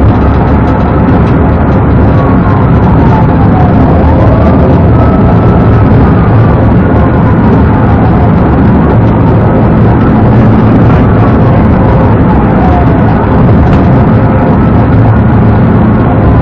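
Police car siren wailing, sliding slowly up and down in pitch every few seconds, over loud steady road and engine noise from the pursuing patrol car.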